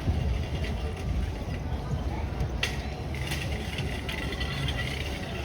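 Busy outdoor ambience: a steady low rumble of traffic and crowd with background voices, a sharp click about two and a half seconds in, then higher chirping or squeaking sounds over the last two seconds.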